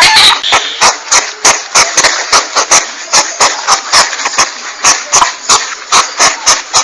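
Porcupine call from a hunting-lure recording: a fast run of sharp clicks, about four a second, over a hissy rasp.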